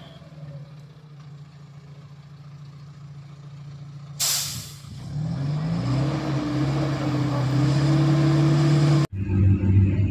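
Heavy dump truck's diesel engine idling, then a short, loud air-brake hiss about four seconds in. The engine then revs up and runs louder under power. Near the end it cuts off suddenly, and another truck engine follows.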